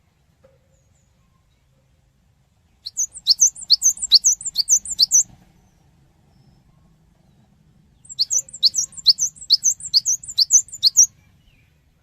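Cinereous tit (gelatik batu) singing two rapid phrases. Each phrase is about eight high, sharply falling whistled notes, roughly three or four a second. The first phrase starts about three seconds in and the second about eight seconds in.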